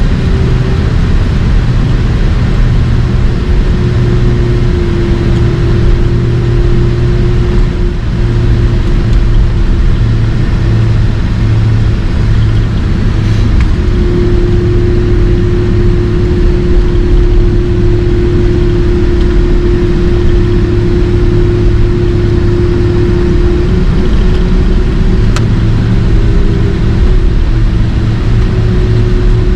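Steady, loud rumble of engines and airflow inside the cabin of a Boeing 767-300 with General Electric CF6 turbofan engines running. A low hum and a held mid-pitched drone run through it, the drone shifting slightly in pitch a few times.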